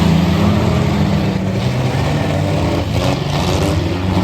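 Truck engines running hard and revving in a figure-eight race, their pitch rising and falling.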